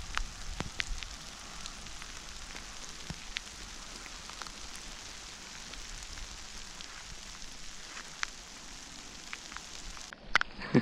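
Heavy rain falling steadily, with scattered sharp drops striking close by.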